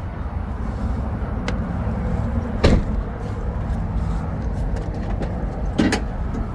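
Two heavy thumps about three seconds apart, over a steady low rumble.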